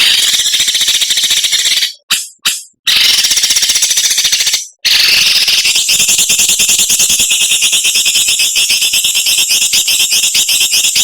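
Harsh, high-pitched, very rapid rattling bird calls: the 'besetan' chatter used in Indonesian songbird-training recordings. They come in bursts, with brief breaks about two seconds in and just before the five-second mark, then one long unbroken stretch of about six seconds.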